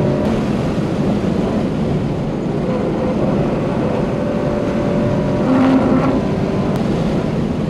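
Subaru BRZ's flat-four engine with a catless exhaust and aftermarket header, heard from inside the cabin, pulling hard at high revs of around 5,300 to 5,600 rpm as the car accelerates on track. It gets briefly louder a little under six seconds in.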